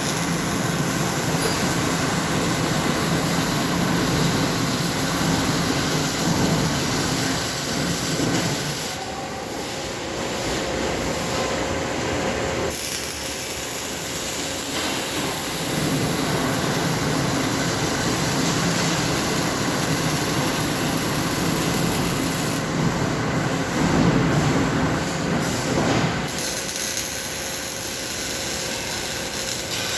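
Steady workshop noise of mufflers being welded: a continuous hiss and rumble with no pauses, which changes character twice.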